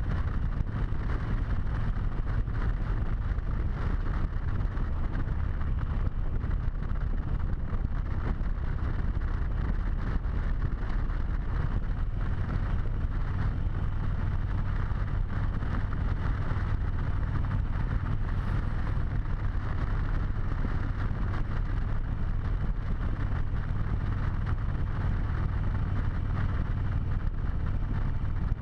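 Harley-Davidson V-twin motorcycle engine running at a steady cruise, with wind rushing over a helmet-mounted camera.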